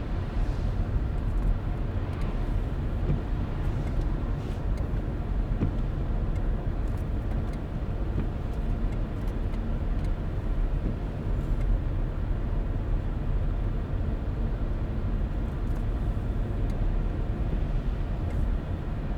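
Car driving along a road at steady speed: continuous low tyre-and-engine road noise, with a few faint light ticks now and then.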